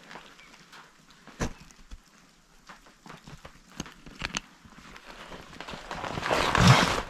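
Footsteps and scattered knocks and clicks, then a louder scraping rumble that builds near the end.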